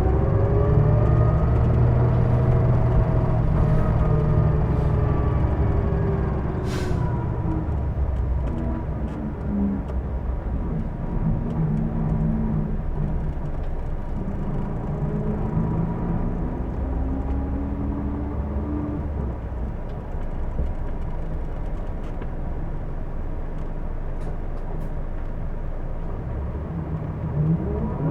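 Interior running sound of a Hino Blue Ribbon II city bus. Engine rumble with drivetrain whines that fall in pitch as the bus slows, a short air hiss about seven seconds in, then whines rising again as it pulls away. The whines are the kind of odd noise the recordist notes on this bus.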